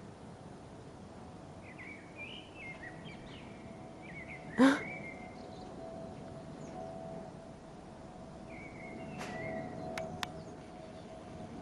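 Bird calls: a run of short chirps, then one loud sweeping call about four and a half seconds in and another shorter call near nine seconds, over a steady faint hum. Two sharp clicks come near the end.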